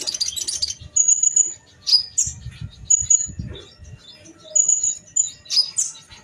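Kolibri ninja sunbirds calling in a duel: a fast chattering burst at the start, then repeated thin, high whistled notes and sharp dropping chips. Low dull thuds come about two to three and a half seconds in.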